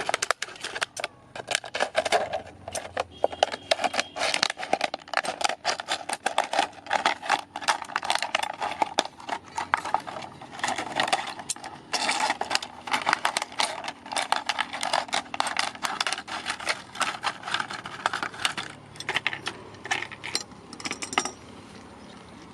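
Hand-forged steel scissors snipping rapidly and repeatedly, a dense run of sharp metallic clicks that stops about a second before the end.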